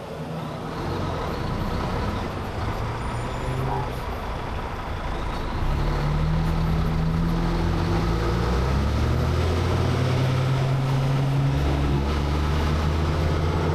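Heavy truck's diesel engine under way, getting louder about six seconds in, its note shifting in steps as it pulls.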